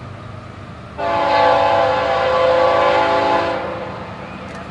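Diesel locomotive's multi-chime air horn sounding one long blast, a chord of several tones that starts sharply about a second in and fades out near the end, over the steady rumble of the train.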